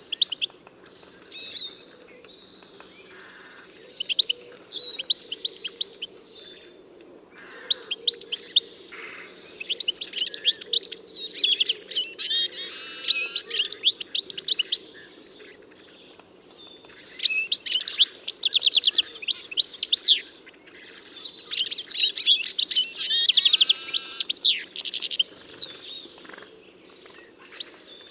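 Songbirds singing: rapid high chirps and trilled phrases that come in bursts several seconds long, over a faint steady low background noise.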